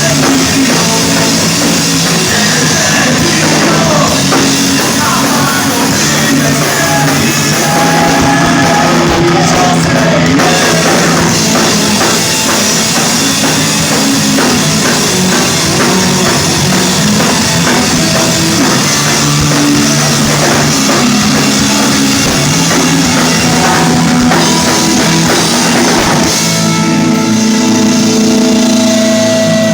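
Live rock band playing loud, with drum kit and electric guitars. Near the end the music settles into long held notes.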